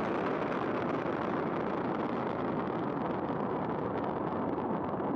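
Falcon 9 first stage's nine Merlin 1D engines firing during the climb after liftoff, a steady noise that holds level, its highest part thinning slightly as the rocket climbs away.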